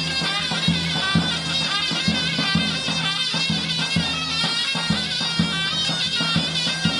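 Turkish folk music played live on a shrill reed wind instrument over a drum beating a steady rhythm, about two strokes a second.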